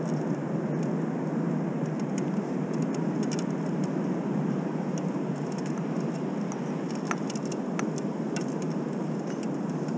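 Steady rushing outdoor noise with a few faint scattered ticks.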